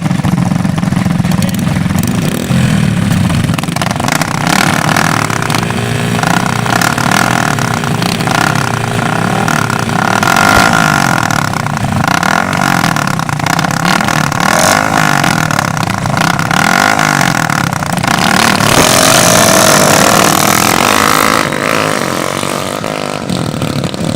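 Several motocross bike engines revving up and down as they ride the track, their pitches repeatedly rising and falling over one another. The engine noise peaks for a few seconds near the end as a bike passes close.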